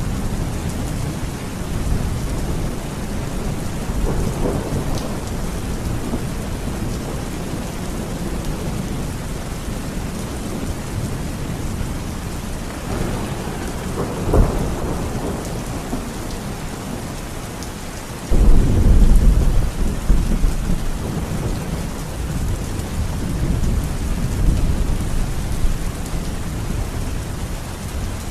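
Thunderstorm: heavy rain falls steadily with rolls of thunder. A sharp crack comes about halfway through. A few seconds later a loud, low rumble of thunder starts abruptly and fades over several seconds.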